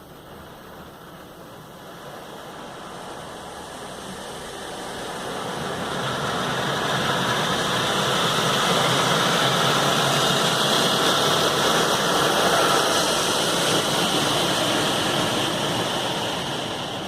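Car wash equipment running: a steady rushing noise that swells over several seconds, holds, then eases off near the end.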